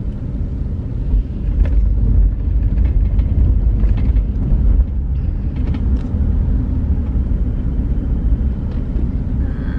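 Low, steady rumble of a car's engine and tyres on the road, heard from inside the cabin while driving slowly, growing a little louder about a second in.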